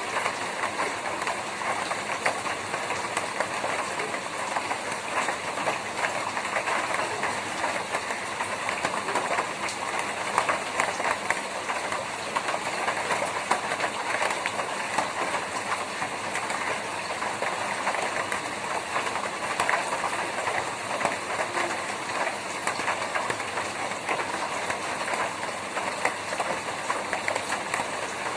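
Rain falling on a tin roof: a steady, dense patter of drops hitting the metal.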